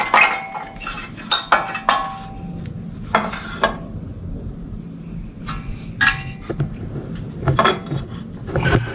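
Metal tools and parts clinking and clattering while being handled: a string of sharp metallic clicks with brief ringing, thinning out to a lull about four seconds in before resuming.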